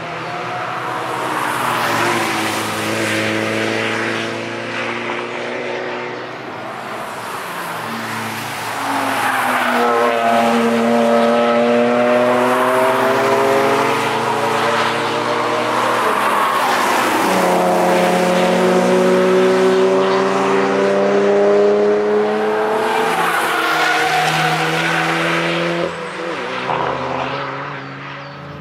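Several cars driven hard past one after another, their engine notes rising and falling as each goes by, with passes overlapping. The loudest passes come in the middle of the stretch.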